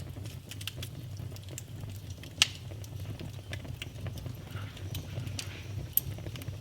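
Wood fire burning in a fireplace: a steady low rumble of flames with frequent small crackles and two sharper pops, one about two and a half seconds in and one near the end.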